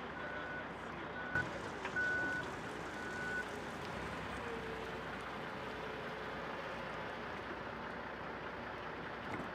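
Vehicle backup alarm beeping, about one high beep a second, stopping about three and a half seconds in, over a steady engine-and-yard noise.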